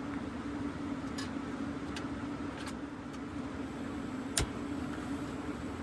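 Diesel air heater running with a steady hum, with a few light clicks scattered over it, the loudest about four and a half seconds in.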